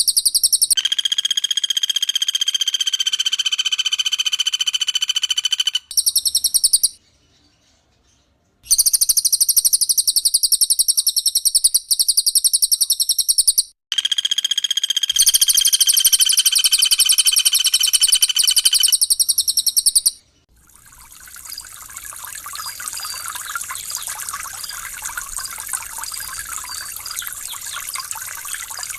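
Recorded calls of a cililin and a common flameback woodpecker (pelatuk bawang) in quick succession: fast, high rattling trills alternating with longer steady whistled notes, with a brief pause after about seven seconds. About two-thirds of the way through the birds stop and gently trickling water takes over.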